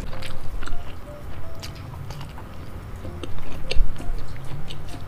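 Close-miked chewing of a sauce-coated sausage: soft wet mouth clicks and smacks, busier and louder about three seconds in.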